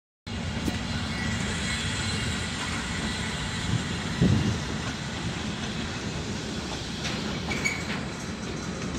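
Freight train rolling past on the rails behind an electric locomotive, with car-transport wagons: a steady rumble of wheels on track, a thump about four seconds in and brief faint wheel squeals.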